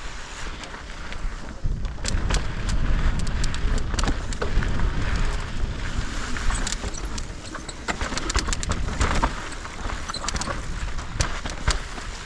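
Mountain bike rattling and clattering over a rough trail, with chain and frame clatter over a low wind rumble on the microphone.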